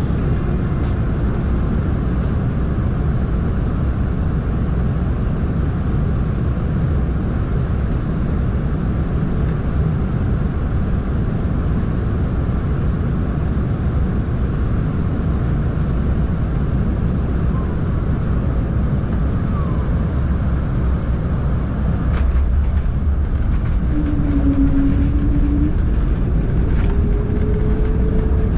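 Cabin noise of an Embraer E190-E2 airliner landing: a steady, loud rumble of airflow and its geared turbofan engines. About 22 s in a sharp thump marks the touchdown, after which the noise grows louder and an engine tone rises near the end, as on the rollout.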